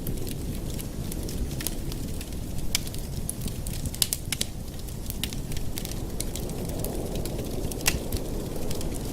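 Wood fire burning in a fireplace: a steady low rumble of the flames with scattered sharp crackles and pops, the loudest about four and eight seconds in.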